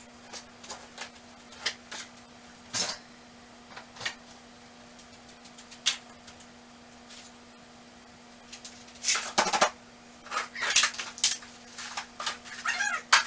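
Hand tools and small metal parts clinking and clattering as they are moved between toolboxes: scattered single clicks at first, then a busier run of rattling from about nine seconds in. A faint steady hum runs underneath.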